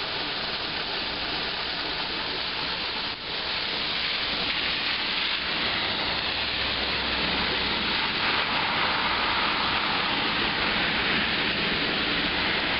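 Flash-flood runoff rushing steadily in a street after heavy rain, with a brief dip about three seconds in.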